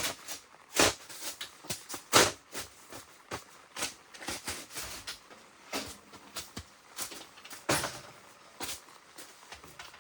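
Irregular knocks and clatters of camp gear being handled and set up, a camp kitchen counter and stove being put together, with the loudest knocks about a second, two seconds and eight seconds in.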